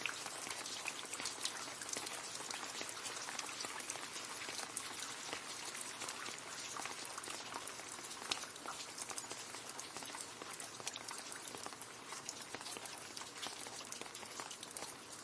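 Steady rain splashing into a puddle: a dense patter of many small drops hitting water.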